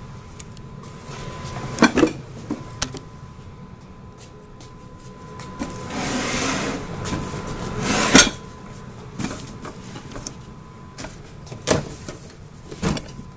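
Household objects being handled and set down: scattered knocks and clatters, with a scraping rub about six seconds in.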